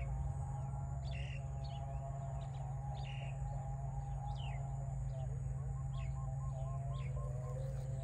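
Small birds calling: many short, sharp down-slurred chirps scattered throughout, with a quick run of repeated notes late on, over a steady low hum.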